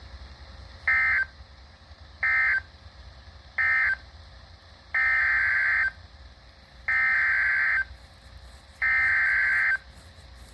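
NOAA Weather Radio SAME digital data bursts, warbling two-tone bursts near 1.5–2 kHz. First come three short bursts, the end-of-message code closing one severe thunderstorm warning. Then come three longer bursts, the coded header announcing the next warning.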